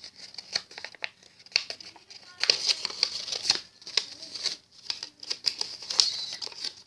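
A sheet of paper being folded and creased by hand: irregular rustling and crinkling with many short scratchy strokes.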